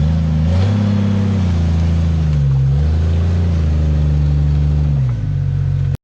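A 4x4's engine revving up and down under load as it drives out of an off-road obstacle, its pitch rising and falling several times. The sound cuts off abruptly at the very end.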